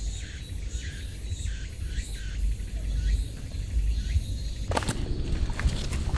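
Birds chirping in woodland, short calls repeated over a low rumble of wind. A louder rustling takes over near the end.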